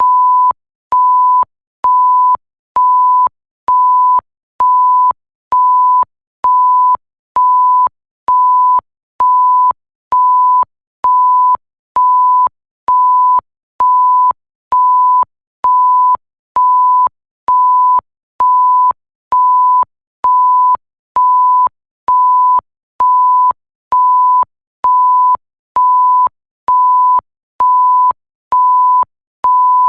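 Electronic 1 kHz tone bleep repeating steadily about once a second, each beep lasting a little over half a second with a short gap, starting and stopping with a faint click.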